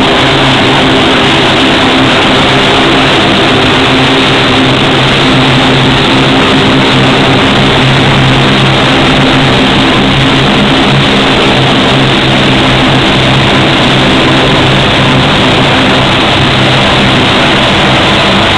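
Lockheed P-3C Orion's four Allison T56 turboprop engines running loudly and steadily, with a steady low propeller hum over a heavy rush of engine noise.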